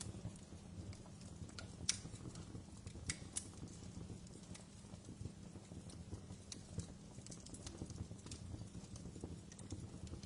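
Wood fire in a fireplace crackling, with irregular sharp pops over a steady low rumble of the flames; the loudest pops come about two and three seconds in.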